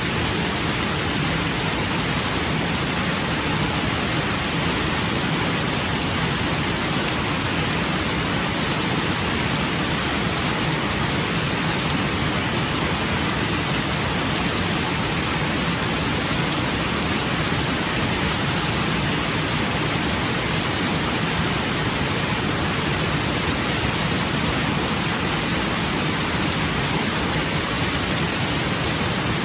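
Steady rain falling, a constant even hiss with no single drops, gusts or thunderclaps standing out.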